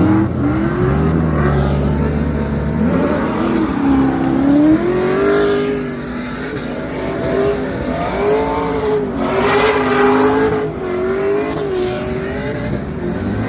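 Car engine revving hard, its pitch swinging up and down over and over, with a lower engine running steadily for the first few seconds and a rush of hissing noise about nine seconds in.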